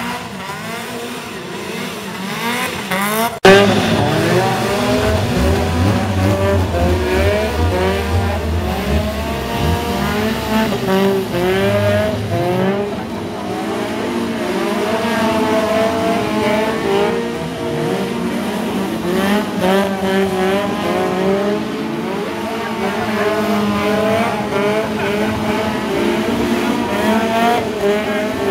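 Drift cars' engines revving hard and falling back again and again as they slide, with tyres squealing. The sound gets abruptly louder about three and a half seconds in.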